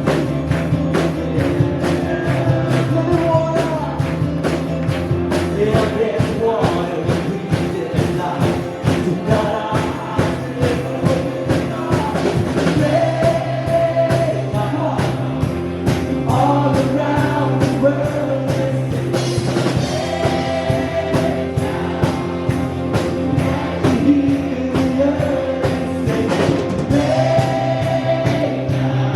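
Live worship band playing a rock-style song, with singing over a steady drum beat.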